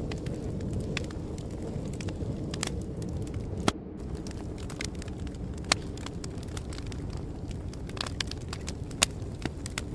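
Fire crackling: a steady low rumble of flames with scattered sharp pops, the loudest a little under four, six and nine seconds in.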